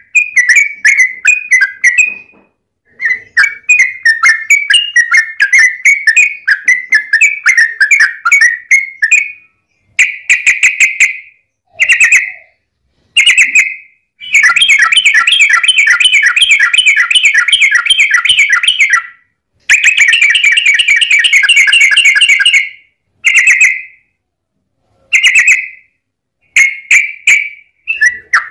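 Yellow-vented bulbul (trucukan) singing loudly in bubbly, chattering phrases with short pauses between them. In the middle come two long, rapid unbroken runs of notes (ropel), one of about five seconds and one of about three.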